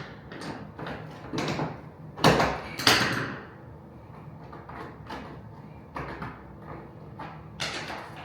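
Vinyl flooring planks being handled and fitted: a string of knocks and short sliding scrapes, the two loudest knocks about two and three seconds in.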